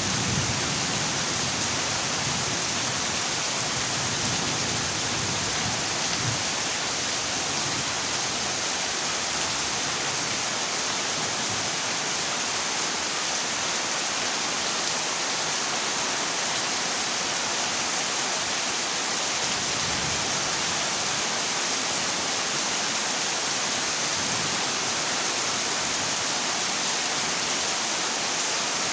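Heavy rain drumming steadily on a corrugated zinc roof, an even hiss. A low thunder rumble dies away in the first second.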